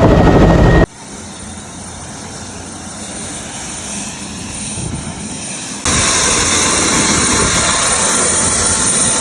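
Helicopter rotor and engine noise in edited segments. It is loud at first, cuts about a second in to a quieter sound that slowly builds, then jumps louder again about six seconds in.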